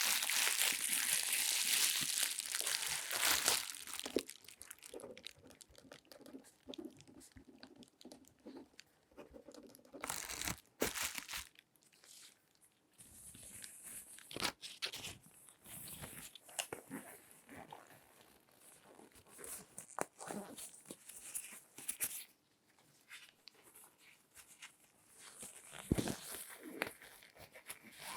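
Loud crinkling and rustling for the first few seconds, then quieter scattered rustles, taps and sharp clicks of hands handling objects close to the microphone.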